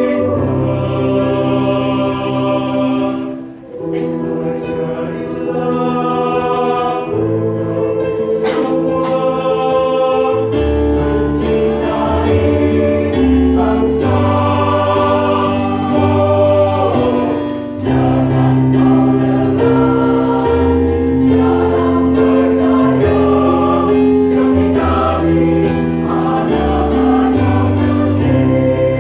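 A school choir singing in harmony, holding long chords that shift every second or two, with a brief breath-like dip about three and a half seconds in.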